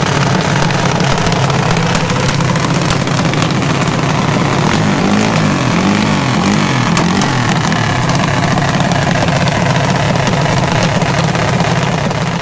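Loud drag-race car engine running steadily at idle, wavering briefly in pitch midway, then fading out at the very end.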